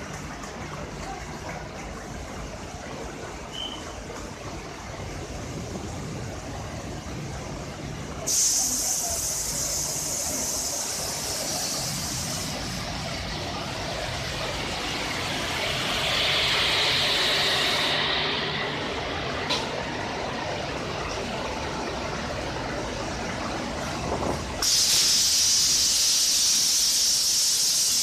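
An Indian Railways passenger train hauled by a WCAM3A electric locomotive pulls slowly out past the platform. Its LHB coaches rumble steadily, with a sudden loud air hiss about eight seconds in that stops about four seconds later, and a second loud hiss starting near the end.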